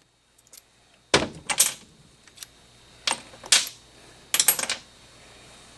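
Several short metallic clinks and clatters, in small clusters about every second or so, from hand tools and loose bolts being handled and set down during an engine teardown.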